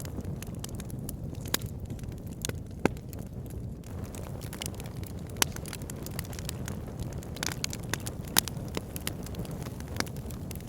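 Wood fire burning in a log burner: a steady low rumble of flames under frequent sharp crackles and pops of the burning logs, a few of them louder than the rest.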